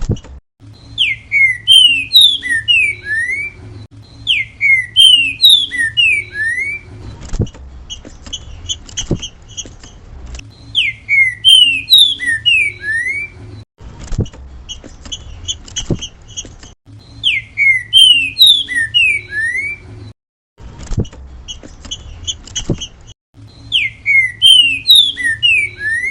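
Green-winged saltator (trinca-ferro) singing its 'grego mole boi' song: five loud phrases, each a quick run of about six whistled, slurred notes, repeated every few seconds. Sharp clicks fall in the gaps between phrases over a low steady hum.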